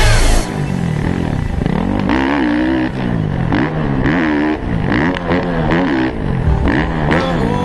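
Pit bike engine revving up and down over and over as it is ridden, the pitch climbing and dropping about six times as the throttle is opened and shut.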